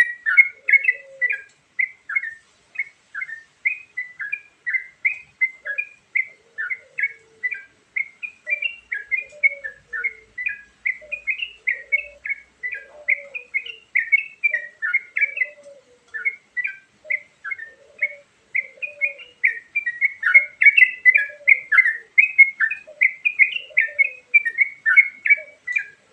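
Sooty-headed bulbul song with varied fill-in phrases: a continuous stream of quick, high chirping notes, with a fainter, lower call repeating about once a second underneath.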